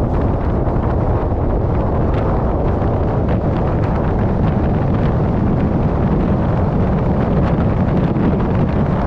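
Wind buffeting the microphone over a steady low rumble of heavy farm machinery running.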